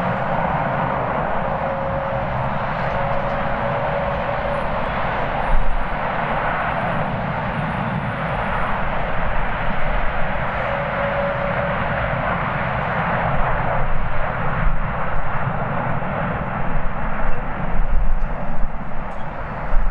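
Jet airliner engines running with a loud steady roar and a faint whine, while gusts of strong wind buffet the microphone in uneven bursts, more often in the second half.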